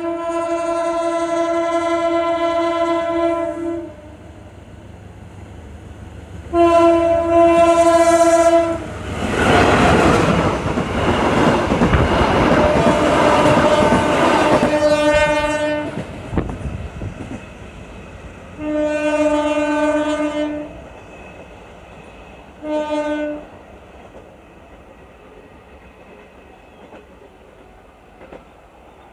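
Passenger train sounding its horn in repeated blasts: a long one at the start, a shorter one a few seconds later, another as it draws level and two more, the last very short, as it moves away. In the middle it passes close by with a loud rushing rumble and clattering wheels for about seven seconds.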